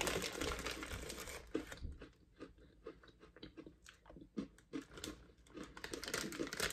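Close-up chewing and crunching of extra-crunchy chocolate-coated pretzels, densest over the first two seconds and then thinning to scattered crunches.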